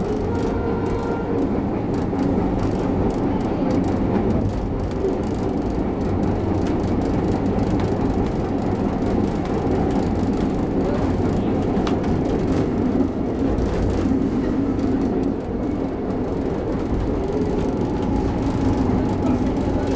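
Vintage passenger train running along the line, heard from inside a carriage: a steady rumble of wheels on rail.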